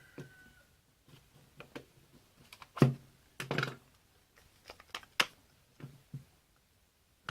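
Parts of a drill-bit sharpener attachment being handled and fitted onto a drill: a series of irregular clicks and knocks, the loudest a sharp knock about three seconds in followed by a short rattle.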